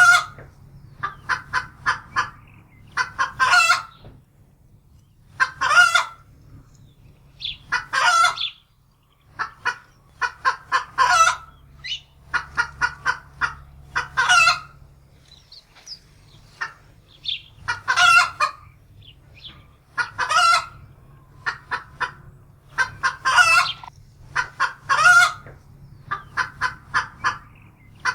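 Domestic hen cackling in alarm: runs of quick clucks, each ending in a loud drawn-out squawk, repeating every two to three seconds.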